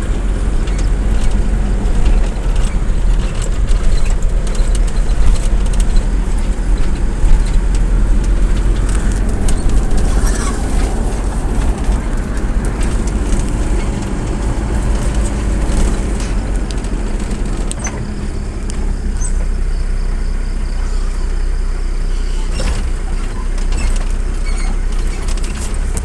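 Road vehicle in motion: a steady low engine and road rumble, with small rattles and clicks now and then.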